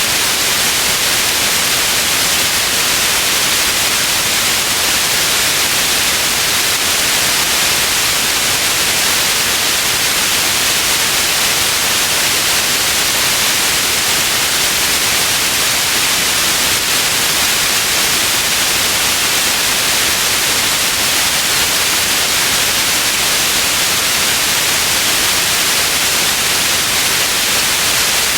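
White noise: a steady, loud, unchanging hiss, brightest in the upper range.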